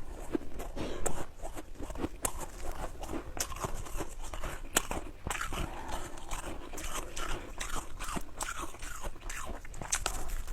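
Ice being bitten and chewed close to the microphone: a dense, irregular run of crisp crunches and cracks.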